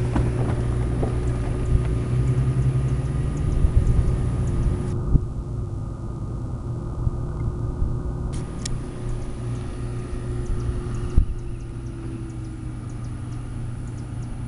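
Steady low rumble of a vehicle engine, with a faint steady hum above it that sags a little in pitch in the later part.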